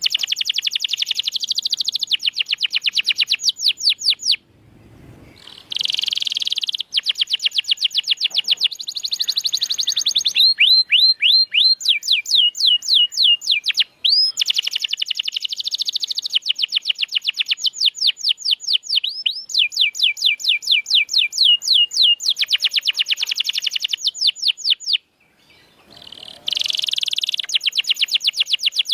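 Domestic canary singing long rolling trills of rapidly repeated down-slurred notes, switching from one trill to another every second or two, with two brief pauses.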